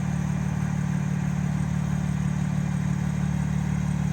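BMW G80 M3 Competition's twin-turbo inline-six idling steadily, a low even exhaust note.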